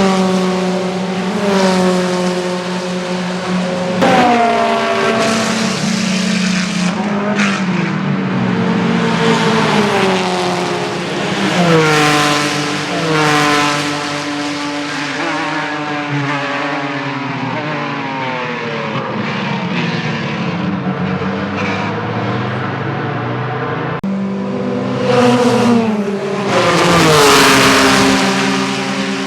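Vintage race cars, formula cars and sports prototypes, running at high revs as they pass one after another, each engine's pitch falling as it goes by, with several cars overlapping. The loudest pass comes near the end.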